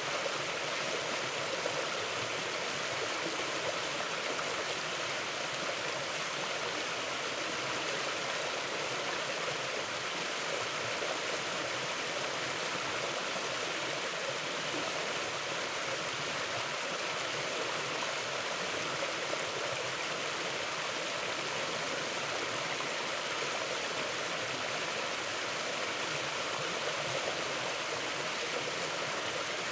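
Mountain river flowing over rocks: a steady, even rush of water with no change in level.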